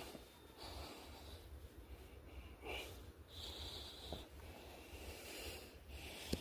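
Breathing close to the microphone, several breaths in a row, over a steady low rumble.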